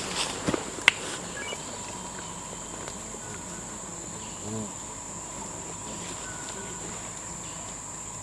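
Steady high-pitched drone of rainforest insects, unbroken throughout. A single sharp click about a second in.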